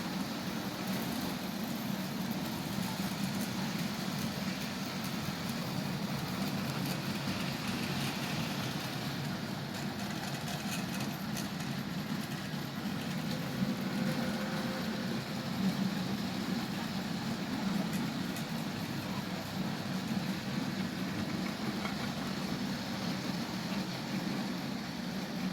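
Bachmann OO gauge Class 47 model diesel locomotive running on the track: a steady whirr from its electric motor and wheels, with a few faint clicks in the middle.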